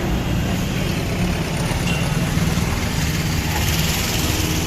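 Steady street noise with a motor vehicle engine running close by, a constant low hum.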